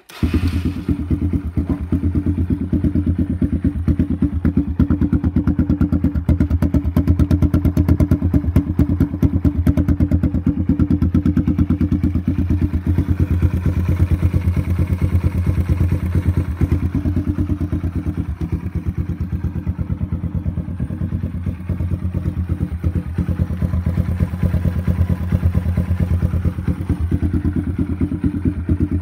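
Kawasaki KLX140's air-cooled single-cylinder four-stroke engine catching on the electric starter at the very start, then idling steadily with an even beat and no revving.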